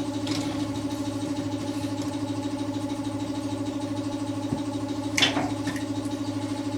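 A motor running steadily, an even pulsing hum. A short clatter sounds about five seconds in.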